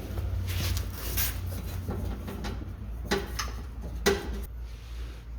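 Sharp knocks and scrapes of metal exhaust parts and hardware being handled and fitted under a car, the loudest knocks about three and four seconds in, over a low steady hum.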